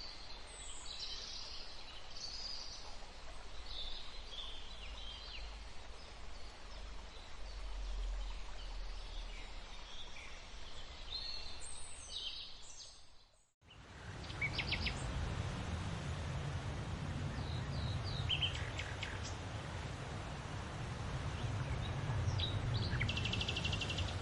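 Forest birds singing, with scattered high chirps and trills, over a steady breeze hiss. About halfway through, the sound fades out briefly and comes back with a stronger low wind rumble, with more bird trills, including a fast trill near the end.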